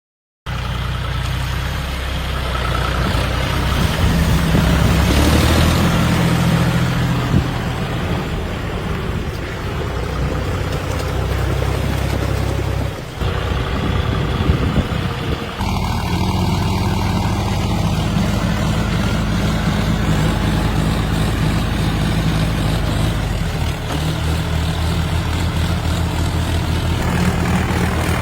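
Tractor diesel engines running steadily, with abrupt changes about halfway through where the sound cuts from one engine to another.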